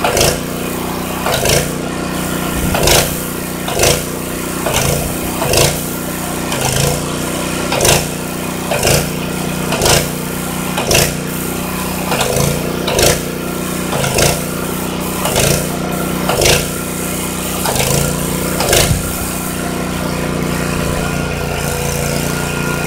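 Airless paint sprayer running while applying a first coat, with a steady hum and a regular pulse about once a second as the pump strokes. The pulsing stops about three-quarters of the way through, leaving only the steady hum.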